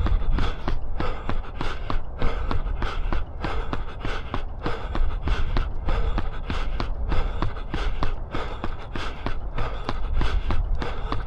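A runner's footsteps striking the ground at a steady cadence of about three steps a second, recorded on a body-worn action camera, over a steady low rumble.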